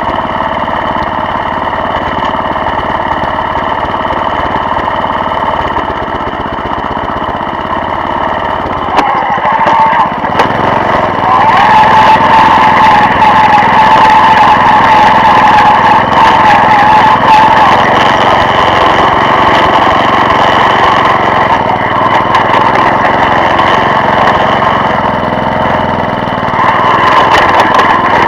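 Walk-behind tractor's engine running steadily, growing louder about ten seconds in and holding the higher level.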